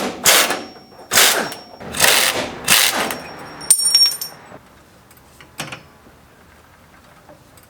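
Metal tools and parts clattering: about five loud rattling clanks in the first three seconds, then a bright metallic ring about four seconds in, followed by a few faint clicks.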